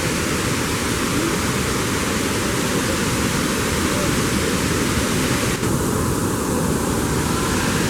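Tulimán waterfall's water rushing close by: a loud, steady, unbroken hiss across all pitches. The upper hiss thins briefly about six seconds in.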